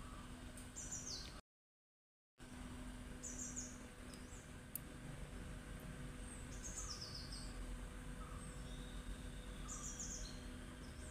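Birds chirping in the background: quick clusters of short high notes every three seconds or so, over a low steady hum. The sound cuts out completely about a second and a half in for about a second, and there is a single sharp click near the middle.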